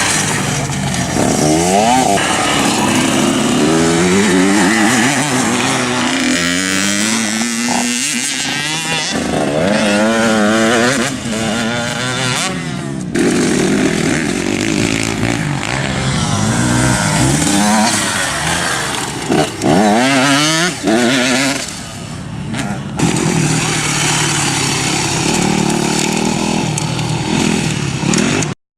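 Motocross motorcycle engines running hard, their pitch repeatedly rising and falling as the riders rev and shift. The sound breaks off abruptly about 13 and 23 seconds in, and stops dead just before the end.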